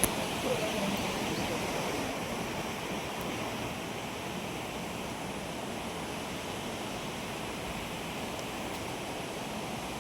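Steady rushing of flowing water, with a sharp click right at the start; a little louder for the first two seconds, then even.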